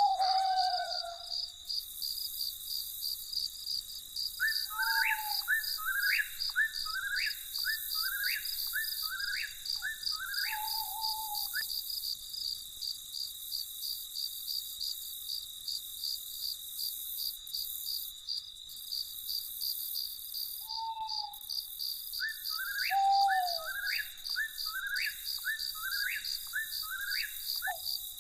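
Crickets trilling steadily in a fast, even pulse, with a night bird calling in two bouts of about six quick repeated notes, one a few seconds in and one near the end. Short, lower single calls come in between.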